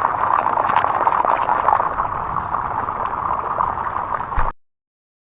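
Heavy downpour of rain: a steady, dense hiss of drops with many small sharp patters, cutting off suddenly about four and a half seconds in.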